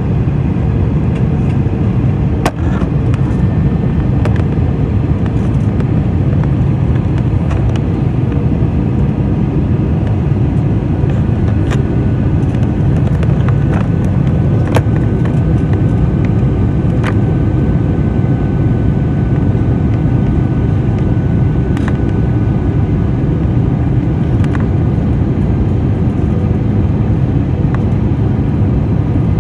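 Airliner cabin noise during descent before landing: a steady low roar of engines and airflow. A few brief clicks and rattles sound over it.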